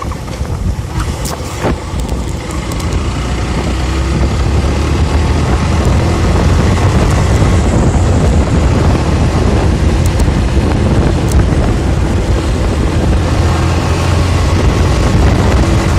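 Steady rumble and wind noise of travel in a moving vehicle, heaviest in the low end, building over the first few seconds and then holding steady.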